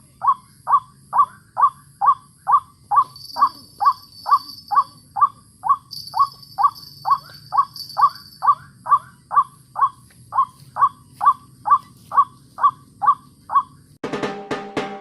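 White-breasted waterhen (ruak-ruak) calling: a short, harsh note repeated steadily a little over twice a second. Music comes in near the end.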